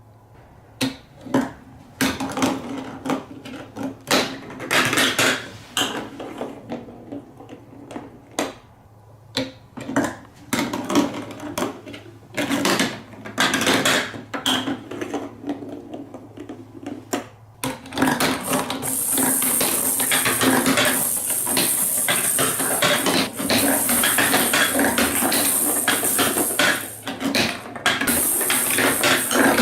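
Marbles running down a block marble run, clicking and knocking against the pieces in scattered hits at first. From about 18 seconds in this becomes a dense, continuous rattle of many marbles rolling and clattering at once.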